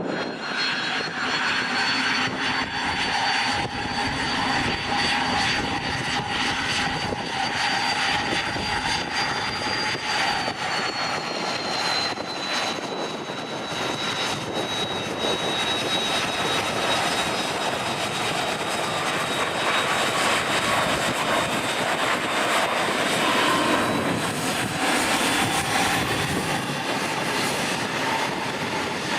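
Jet aircraft engines running with a high whine over a loud rush of noise; the whine drops slightly in pitch about eleven seconds in, as the aircraft goes past.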